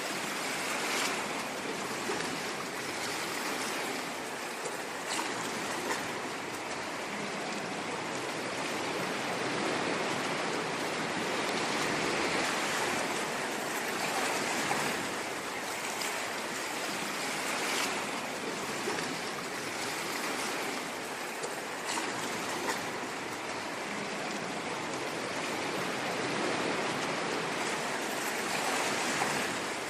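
Ocean waves breaking and washing ashore: a continuous rush of surf that swells and eases gently every few seconds.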